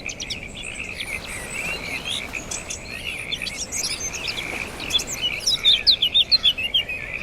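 Birds chirping over a steady chorus of frogs, with a quick run of loud chirps near the end.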